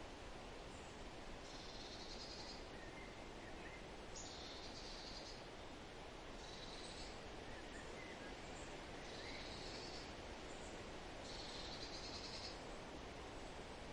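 Forest ambience: a steady hiss under a bird singing a high trilled phrase about a second long, five times, every two to three seconds, with a few faint softer chirps between.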